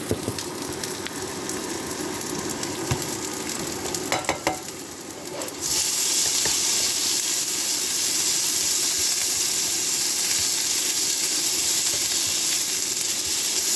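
Marinated pork frying in a hot pan, with a few clicks of a utensil on the pan in the first half. About halfway through the sizzle turns suddenly louder and stays steady.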